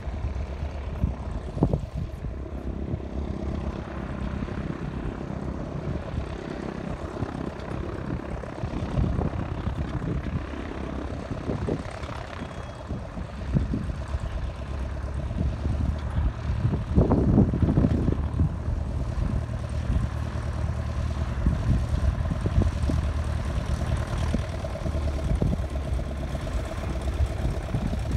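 Vari Eze's propeller engine running at a low idle, steady and uneven-firing, with a louder surge about seventeen seconds in.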